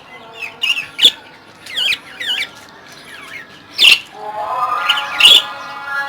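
Caged budgerigars squawking and chirping: several short, sharp calls that glide up and down in pitch.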